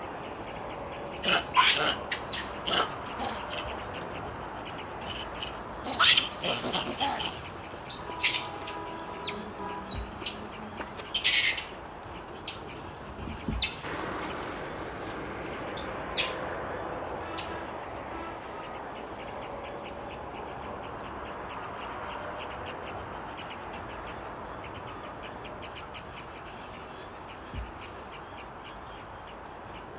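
Birds calling in forest: a run of short, sharp chirps and calls, some sliding down in pitch, loudest around 1.5, 6 and 11 s and thinning out after about 17 s. Under them a fast, high ticking trill keeps on through the second half.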